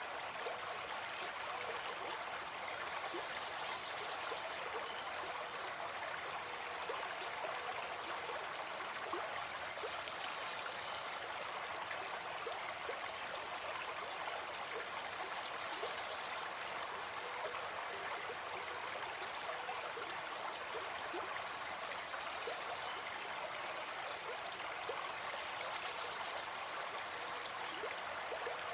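Gentle forest stream flowing steadily, an even, unbroken rush of running water.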